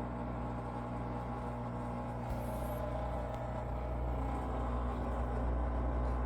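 Electrolux washing machine's drain pump running with a steady, low hum made of several even tones. This is the noise the owner complains of during the colour cycle, and it grows a little louder near the end.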